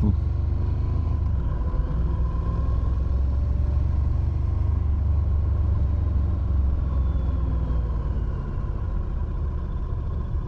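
Motorcycle running steadily on the move, with a low, even rumble of engine and wind noise on the rider's microphone.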